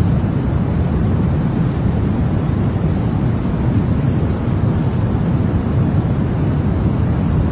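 Continuous sleep noise for babies: an even, unbroken rushing noise with most of its weight in the low end, with no changes, rhythm or pitch.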